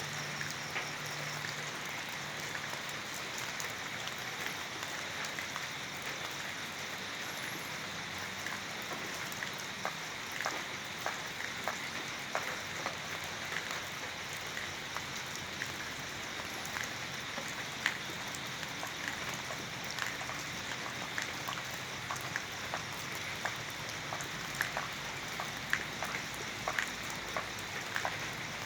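Steady rain falling, with a continuous hiss and many separate drops pattering and ticking on a surface, the individual drips growing more frequent about a third of the way in.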